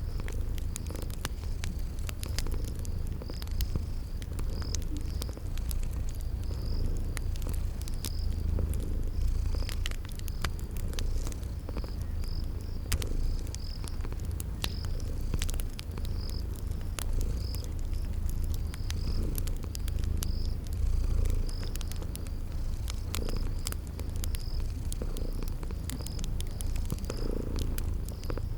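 A cat purring steadily in a low rumble, over a wood fire crackling with frequent sharp pops and a cricket chirping in an even, high rhythm.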